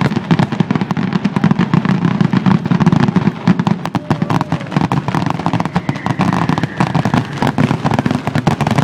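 Fireworks finale barrage: a dense, unbroken rattle of rapid bangs and crackles.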